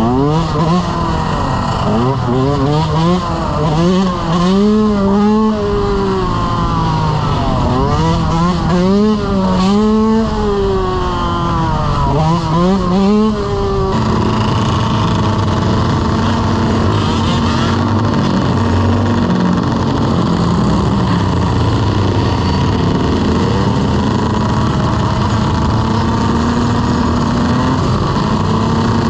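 Dirt bike engine revved up and down over and over, its pitch climbing and dropping several times. About halfway through it changes abruptly to a steady run at a nearly constant pitch.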